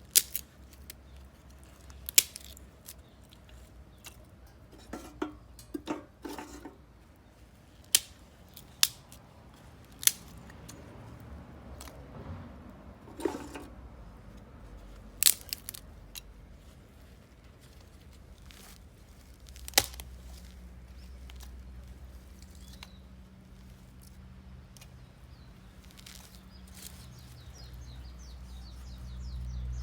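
Sharp wood cracks and snaps, about a dozen of them at irregular gaps of one to several seconds, over a low steady rumble. Faint bird chirps come in near the end.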